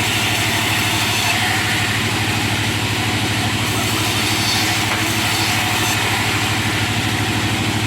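Engine-driven sawmill machine cutting wood, running steadily: a low, fast-pulsing engine drone with an even hiss above it.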